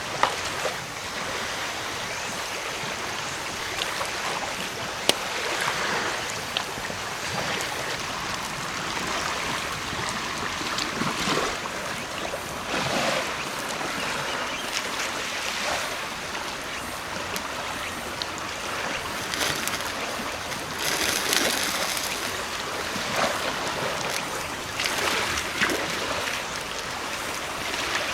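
Sea waves washing onto the shore, a steady rush that swells every few seconds, with a few sharp clicks.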